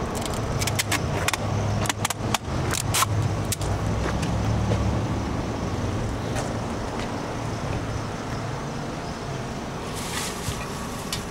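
A vehicle engine running steadily with a low hum that fades after about eight seconds, with scattered sharp clicks and knocks in the first few seconds.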